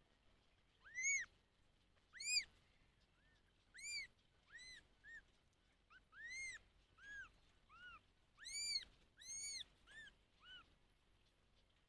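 A young animal calling over and over: about fifteen short, high-pitched calls, each rising then falling in pitch, some louder and some fainter.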